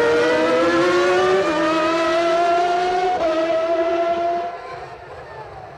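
Formula One car engine accelerating, its high-pitched note climbing steadily with two upshifts along the way, then fading away.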